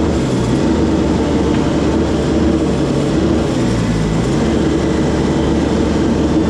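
A small gasoline engine runs steadily on the sawmill-yard machinery, a loud continuous drone that holds an even pitch.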